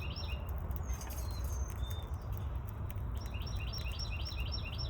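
Budgerigars chirping: a few single whistled notes, then a quick run of short repeated chirps about three seconds in, over a steady low background rumble.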